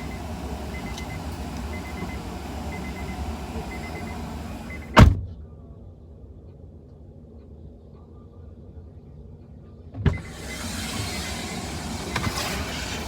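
A car door slams shut about five seconds in, cutting off a repeating beep and the outside noise, which then sounds muffled. Near the end another thump lets the louder rushing noise back in.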